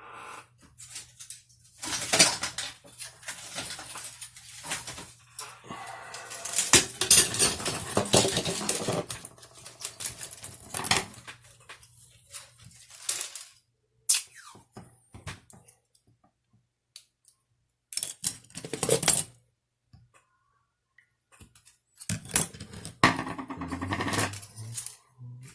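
Bench handling noises: irregular stretches of rustling and scraping with sharp clicks and light clatter, consistent with tape being pulled off a roll and wrapped around the clock spring's repaired wire.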